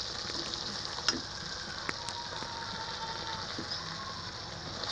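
Bitter melon, pork and egg frying in a wok: a steady sizzle with a few sharp clicks, the loudest about a second in.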